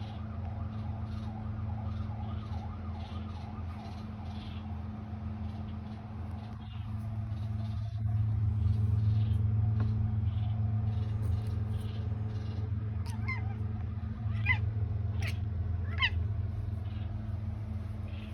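A steady low hum throughout, louder from about eight seconds in, with a few short falling chirps near the end.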